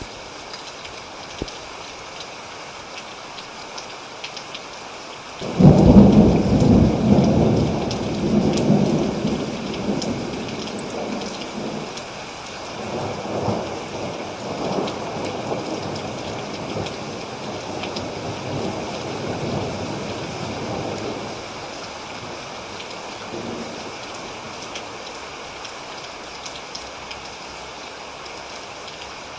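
Steady rain falling, with a clap of thunder about five seconds in that starts suddenly and rolls on in waves for about fifteen seconds before dying back to the rain.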